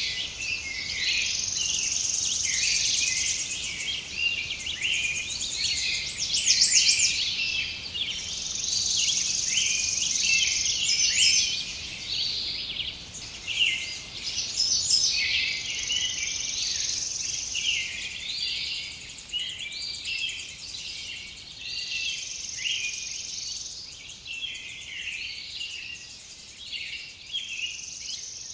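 Chorus of many songbirds chirping and singing at once, with a high steady buzzing trill that comes and goes every few seconds.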